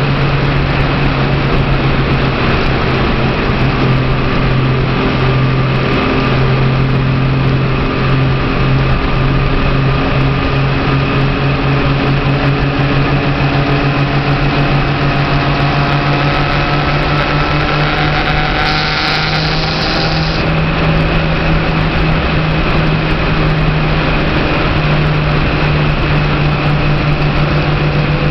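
Motorcycle engine running steadily at road speed, with road and wind noise. Its pitch rises gradually partway through, and there is a brief hiss about two-thirds of the way in.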